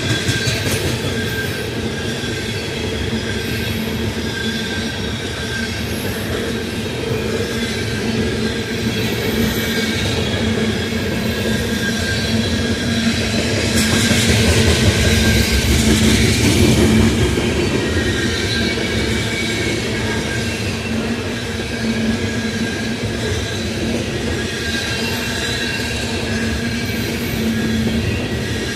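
A long coal train's cars rolling past, steel wheels on the rails making a steady rumble with thin, steady squealing tones riding over it. It swells louder about halfway through, then settles back.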